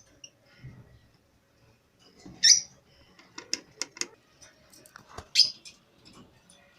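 Caged pet-shop birds calling: two loud, short squawks about two and a half and five and a half seconds in, with a quick run of short, sharp chirps between them.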